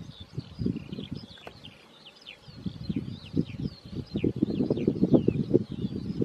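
Small birds singing with many quick, high chirps that sweep downward, over a louder, irregular low rumble that dips quiet about two seconds in.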